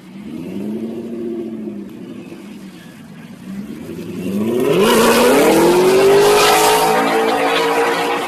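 Engine revving: a low pitched running that swells and eases over the first two seconds, then climbs sharply in pitch about five seconds in and holds higher and louder.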